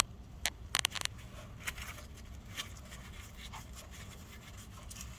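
Small handling sounds of the oil drain screw on a Tomos A3 moped engine being turned out by hand: a quick cluster of sharp metal clicks about a second in, then scattered faint ticks and scrapes.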